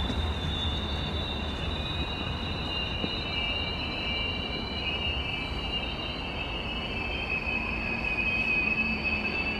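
A train running out of sight, with a low rumble and a high metallic squeal made of several tones that slowly shift in pitch.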